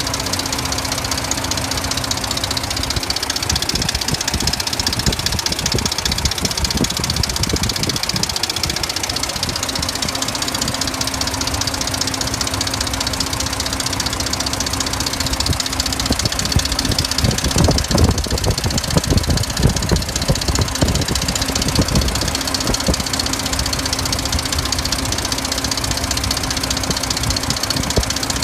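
Dodge Ram pickup engine idling with a steady tick, which the mechanic blames on a worn timing chain. It grows louder and rougher for a few seconds past the middle.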